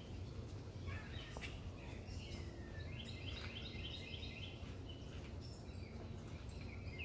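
Wild songbirds chirping and singing over a steady low background rumble, with a fast trill of repeated high notes near the middle.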